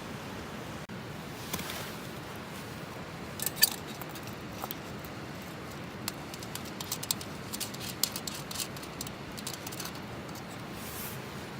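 Irregular light clicks and taps, densest through the middle, over a steady hiss.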